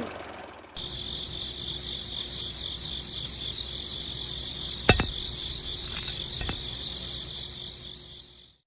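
Steady high-pitched insect trilling, like crickets. Two sharp knocks come through it, about five seconds in and again a second and a half later.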